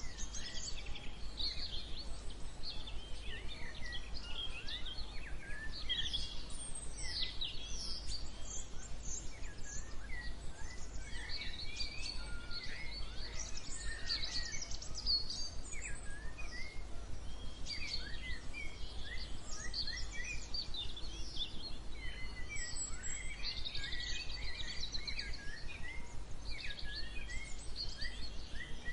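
A chorus of many small birds singing at once: overlapping chirps and short whistles that keep up without a break, over a steady low hum.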